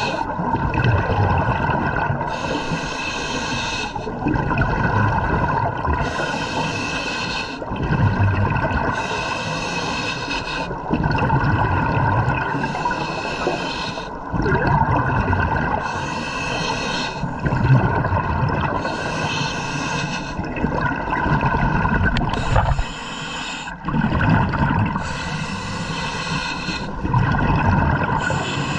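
Scuba diver breathing underwater through a regulator. A hissing inhale alternates every few seconds with the low bubbling of exhaled air.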